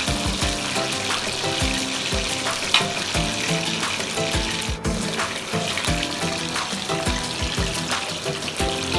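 Hot oil sizzling steadily as chicken fries, under background music with a melody and a steady beat.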